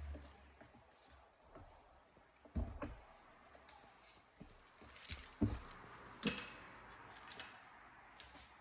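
Scattered knocks and clicks of hard objects being handled, with a light jangle; the loudest come about two and a half, five and a half and six seconds in.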